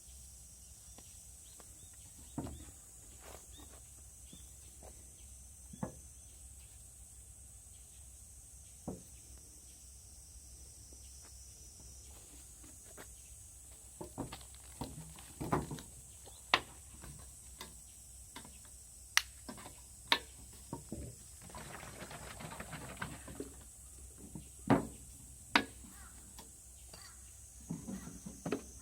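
Scattered clicks and knocks of tools and parts being handled during a motorcycle oil change, coming more often in the second half, with a short rushing hiss about three-quarters of the way through.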